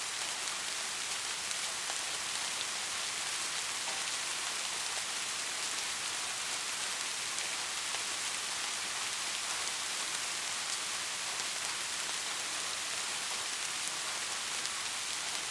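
Steady rain falling on a roof, an even hiss with fine pattering of drops.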